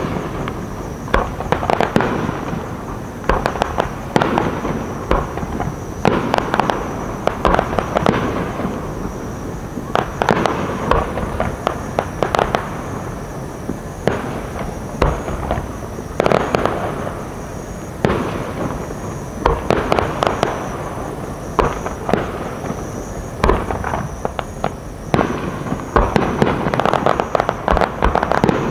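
Fireworks display: shells bursting in rapid clusters every few seconds, with sharp reports and continuous crackling between them.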